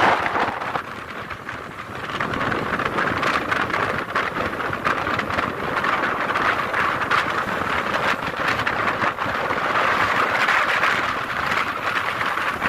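Strong tornado wind blowing hard, a steady rushing noise with short crackles through it, dipping briefly about a second in.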